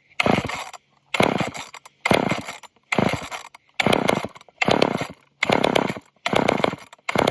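Old two-stroke chainsaw being pull-started over and over: about eight quick pulls roughly a second apart, each a short burst of cranking that fades before the next pull.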